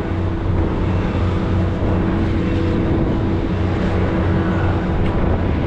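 Fishing boat's engine running steadily: a constant low drone with a held hum.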